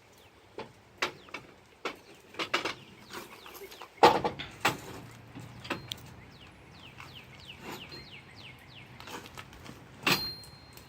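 Irregular knocks and clanks of metal hitch and carrier parts being handled and fitted into place, the loudest about four seconds in and again near the end. Birds chirp in the background.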